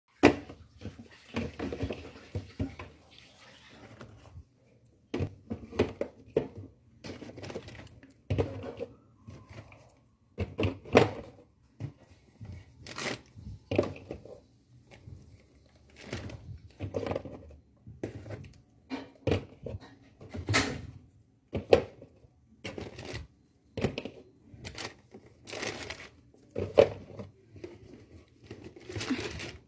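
Plastic bags and packaging rustling and crinkling in irregular bursts, with sharp knocks of items being handled and set down.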